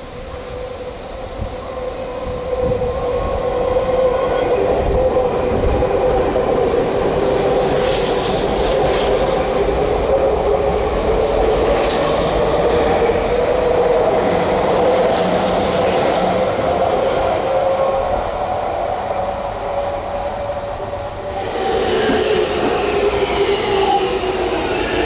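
Electric commuter train running through the station: a steady rumble of wheels on rail with a ringing tone, and brief high squeals a few times in the middle. Near the end the sound swells again as a falling whine joins in.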